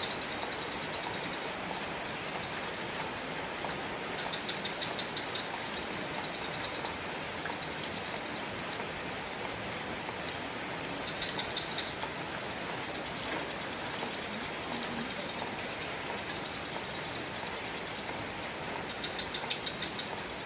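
Steady rain falling, an even hiss of many drops. A short, rapid, high-pitched pulsing sound comes and goes about four times over it.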